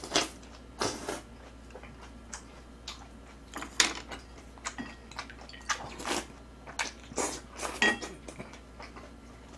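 Close-miked eating sounds: irregular wet smacks and chews, about two a second, as a mouthful of kimchi is chewed.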